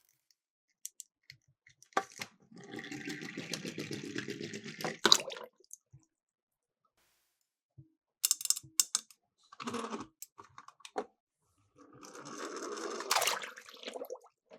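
Small die-cast toy cars clattering as they roll down a plastic slope, in two runs of rattling each ending in a sharp clack, with scattered clicks of the toys being handled and set down in between.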